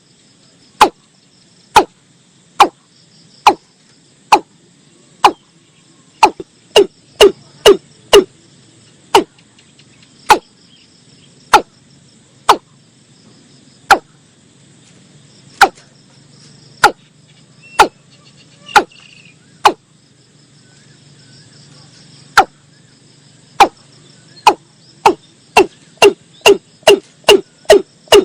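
Watercock calling: a long series of loud, sharp, hollow single notes, each dropping quickly in pitch, about one a second, twice speeding up into quicker runs. Insects trill faintly and steadily behind.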